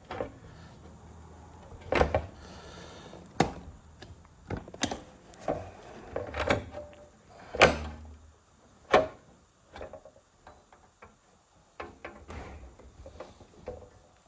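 Scattered knocks, clunks and clicks of tools and a track saw's guide rail and clamp being handled and repositioned, a dozen or so separate hits with no saw running.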